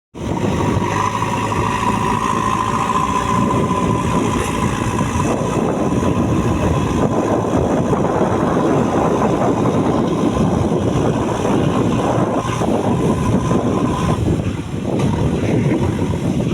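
JCB 3DX backhoe loader's diesel engine running steadily, with a steady high tone over it that stops a couple of seconds before the end.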